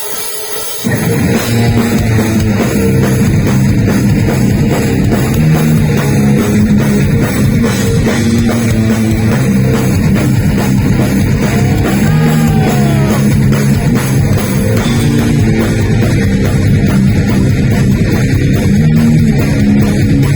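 Live heavy metal band starting a song about a second in, then playing loud: drum kit, distorted electric guitars and bass.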